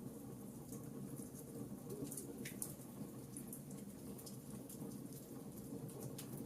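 Fireplace fire crackling: irregular small sharp pops and ticks scattered over a faint, steady low rumble of burning.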